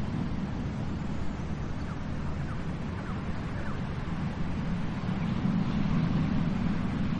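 Sea surf: a continuous low rush of waves, swelling louder in the second half. A few faint short chirps sound over it near the start.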